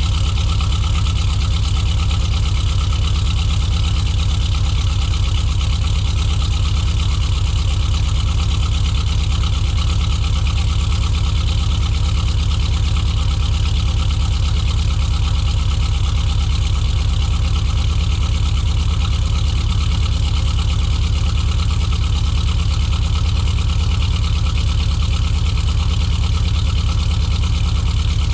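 Chevrolet 350 small-block V8 in an S10 pickup idling steadily after a cold start. It runs a bit rough because the engine is not yet fully tuned.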